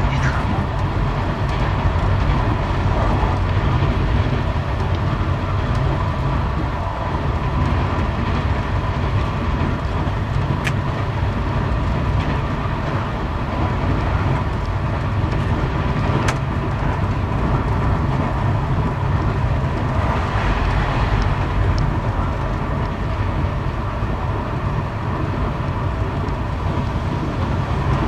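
Steady running rumble of a passenger train in motion, heard from inside the carriage.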